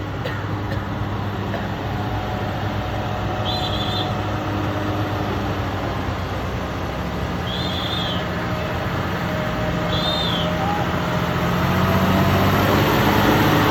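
TVS Ntorq 125 scooter's single-cylinder engine running steadily on the move, under wind and road noise. Three short high chirps sound a few seconds apart, and the road noise swells near the end.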